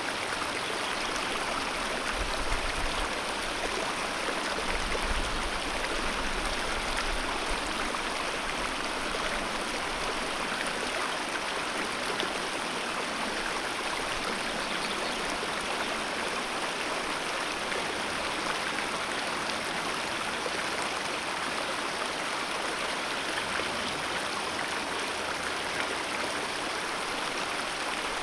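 Alpine mountain river flowing, a steady, unbroken rush of water.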